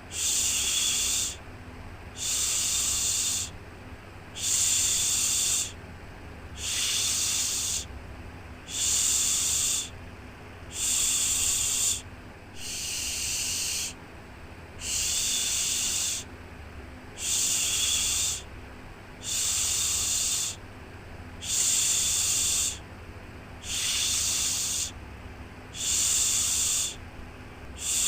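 Shushing 'shhh' for soothing a baby, repeated in a steady rhythm: a hiss lasting a little over a second, then a short pause, about once every two seconds.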